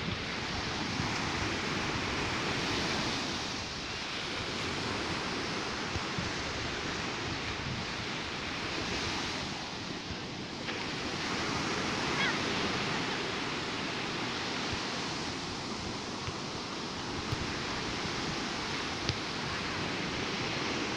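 Sea waves washing onto the shore in a continuous rush that swells and eases every few seconds, with wind rumbling on the microphone.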